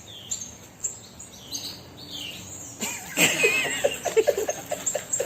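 Macaw calling: a few short falling chirps, then about three seconds in a louder run of rapid, pulsed chatter with a wavering high whistle over it.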